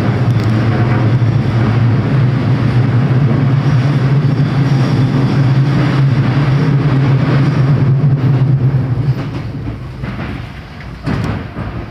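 Train running noise heard from inside the carriage: a loud, steady low hum over rolling noise. About nine seconds in, the hum drops away and the noise grows quieter.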